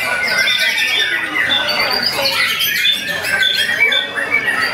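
Caged white-rumped shamas (murai batu) singing, a dense tangle of overlapping whistles, rapid trills and harsh chattering calls with no pause.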